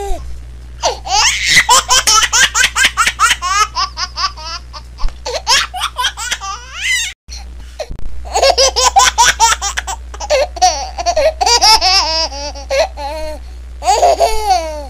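High-pitched laughter in quick repeated bursts, played as a funny laughter ringtone. It cuts out for a moment about seven seconds in, then starts again.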